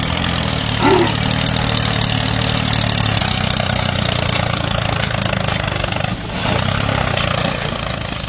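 Engine of a DIY mini tractor running steadily, with a brief rising squeak about a second in and a short dip in level around six seconds.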